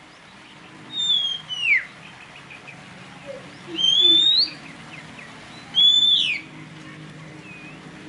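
Songbird whistles: three loud, clear whistled phrases about two seconds apart. The first glides down, the second rises, and the third holds high, then drops.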